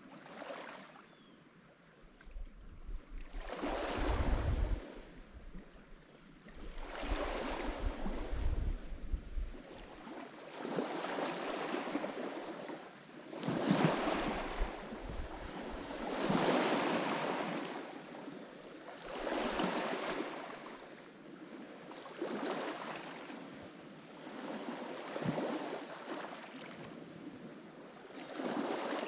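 Lake Michigan waves breaking and washing onto the shore, one after another about every three seconds, each surge rising and then fading. In the first ten seconds, wind rumbles low on the microphone under two of the surges.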